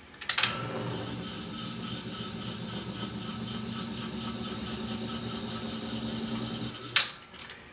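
1940s wire recorder's motor and transport running with a steady hum, switched on with a click just after the start and off with a click about seven seconds in.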